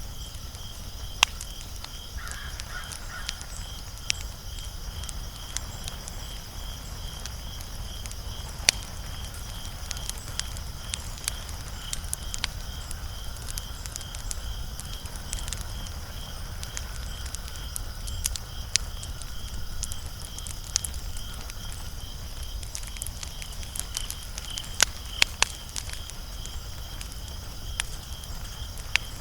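Wood fire crackling with irregular sharp pops, a few of them louder, over a low rumble. A steady, rapidly pulsing high chirp runs behind it, and a short call sounds about two seconds in.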